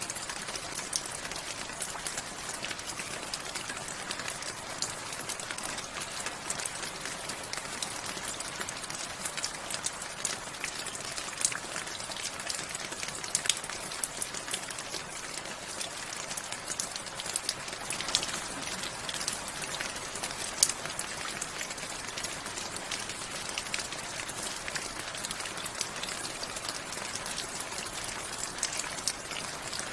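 Steady rain falling: an even hiss with many separate drop hits scattered through it.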